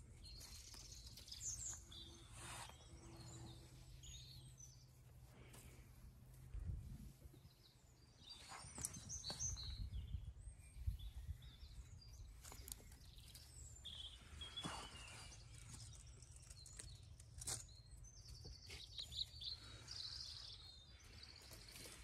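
Faint garden birdsong: scattered chirps and short song phrases from small birds, with a quick run of repeated notes near the end. Low rustling and handling noise runs underneath.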